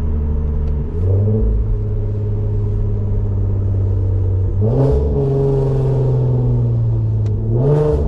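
A car's loud engine and exhaust running steadily under way. The revs step up slightly about a second in, then rise sharply twice, near the middle and near the end, each time with a short rasp from the exhaust. After each rise the pitch sags slowly.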